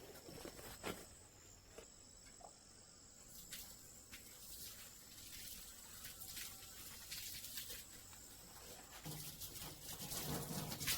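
Quiet rural ambience: a faint, steady, high-pitched insect drone, with scattered light clicks and taps.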